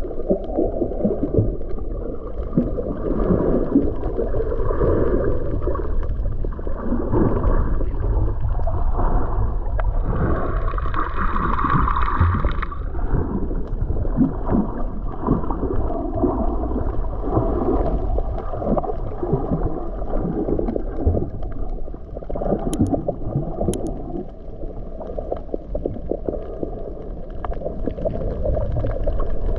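Muffled underwater sound of water sloshing and bubbling around a camera held below the surface while snorkeling. A brief higher hum comes in about ten seconds in.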